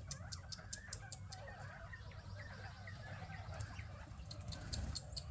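Chickens clucking, with many short chirping calls and scattered sharp ticks.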